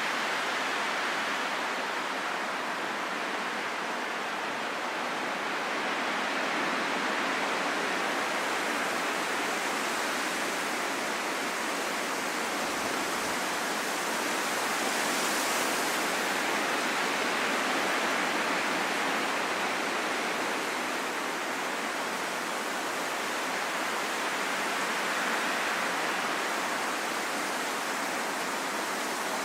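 Wind blowing steadily in a continuous rush, swelling and easing slowly.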